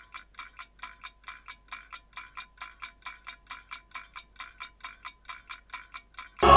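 Rapid, even ticking with a bright metallic ring, about four to five ticks a second, starting abruptly and cut off near the end.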